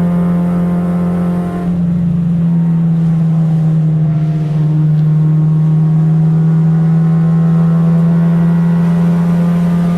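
Car engine running at high, steady revs, with a brief dip in pitch and loudness about two seconds in before it settles again.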